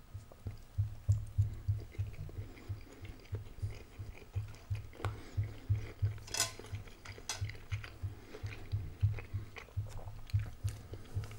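Close-miked chewing of a mouthful of fried egg, a steady run of low, soft thumps about three a second. About five to seven seconds in, a few sharp clicks of a fork against the plate.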